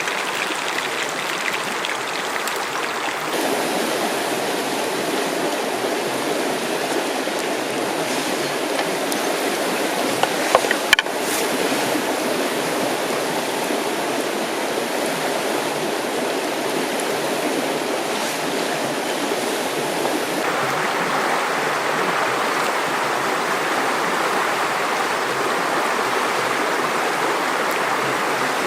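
River water flowing with a steady rush. Its tone changes abruptly twice, about three and about twenty seconds in, and a few sharp clicks come about ten to eleven seconds in.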